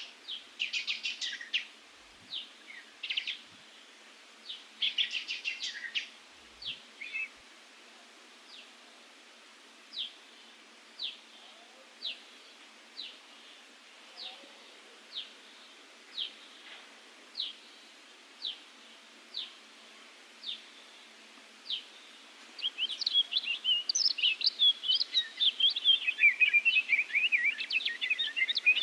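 Small birds calling outdoors. Trilled phrases open it, then single short chirps repeat about once a second, and dense, rapid twittering takes over near the end.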